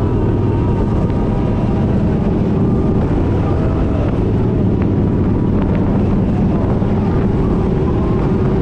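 Kawasaki Vulcan 1700 Vaquero V-twin engine running steadily while riding, with road and wind noise.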